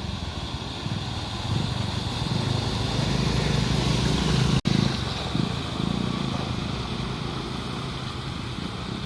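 Renault Kwid car engine running while driving, a steady low hum under a wash of tyre and road noise. It grows louder toward the middle, cuts out for an instant about halfway, then slowly fades.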